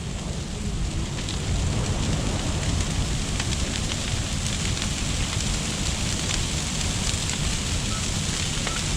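Large freshly lit bonfire burning, a steady rushing noise full of small crackles and pops.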